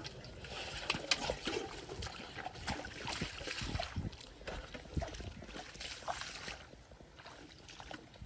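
Irregular splashing and sloshing in shallow muddy paddy water as fish are grabbed by hand, with small knocks mixed in. It is busiest in the first six seconds and quieter near the end.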